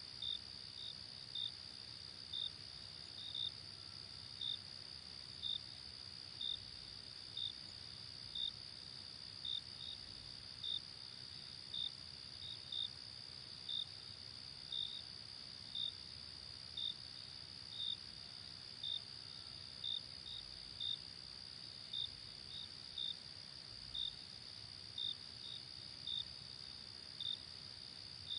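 Night insect ambience: a steady high-pitched trill of crickets, with a separate short chirp about once a second, over faint hiss.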